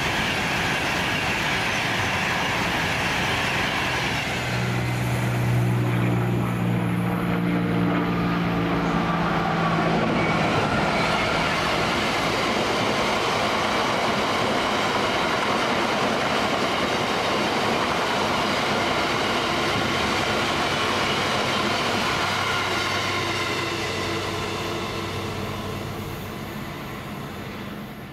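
A train passing through the station: a long, steady rush of wheels on rail, with a low engine drone for several seconds near the start. The sound fades away near the end.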